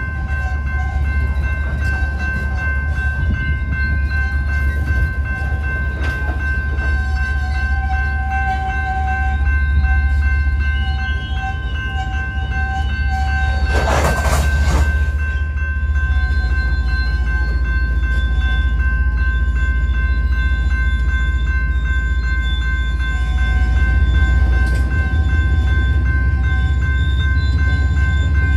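BNSF covered-hopper grain train rolling through a grade crossing: a steady low rumble of wheels on rail. Over it the crossing's General Signals type 2 electronic bell rings steadily. A brief loud burst of noise comes about halfway through.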